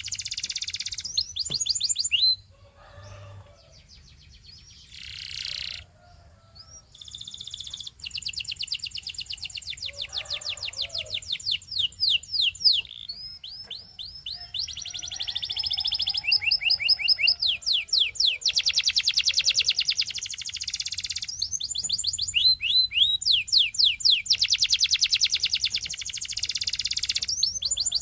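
Canary singing: rolling trills of very fast repeated notes alternating with runs of quick downward-sweeping notes. It goes quieter for a few seconds early on, then builds back into long trills.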